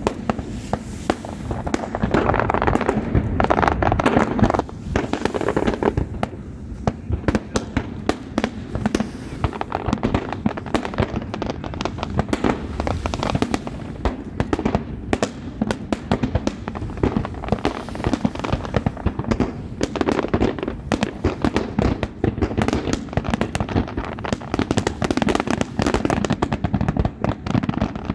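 Fireworks display: a dense, unbroken run of bangs and crackling reports, several a second, loudest a few seconds in.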